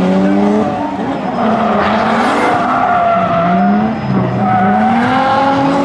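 A car engine held at high revs, its pitch wavering up and down, with tires squealing and skidding, as in a burnout or donuts. It comes in suddenly and loud.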